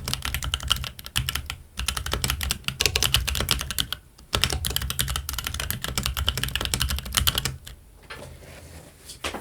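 Fast typing on a Keychron Q1 mechanical keyboard with Gazzew Boba U4T silent tactile switches and ABS Cherry-profile keycaps: a dense run of keystrokes, with a short pause about four seconds in. The typing stops a little past two-thirds of the way through, leaving only faint sounds and one last brief burst of keystrokes near the end.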